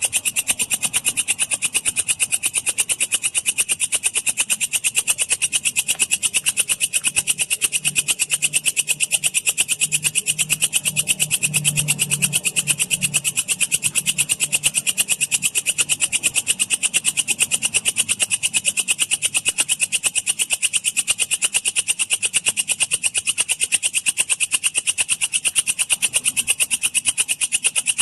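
Walang kecek, an Indonesian bush cricket, calling in rapid, evenly repeated high-pitched chirps without a break.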